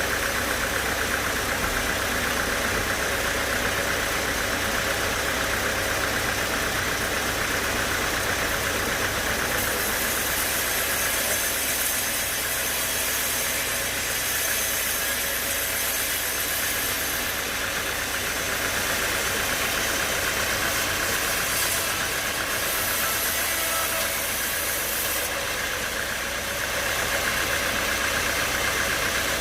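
Sawmill machinery running steadily, a constant mechanical drone, with a brighter high hiss through the middle that could be the saw cutting the redwood log.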